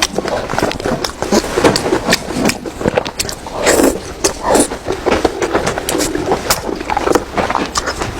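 A person chewing food close to the microphone: a fast, irregular run of mouth clicks and smacks.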